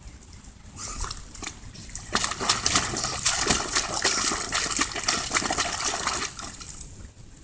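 A dog splashing and sloshing about in a muddy puddle. The water noise picks up about two seconds in and eases off near the end.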